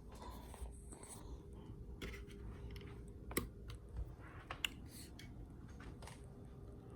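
Scattered light clicks and taps, the sharpest about three and a half and four and a half seconds in, over a faint steady hum.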